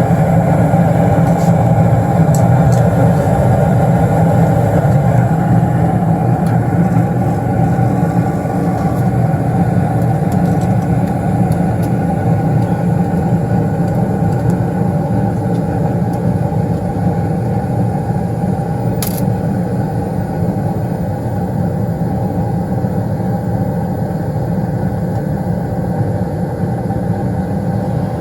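Newly installed 90% gas furnace running steadily under test firing, a loud even rumble of burners, inducer and blower, with a single brief click partway through.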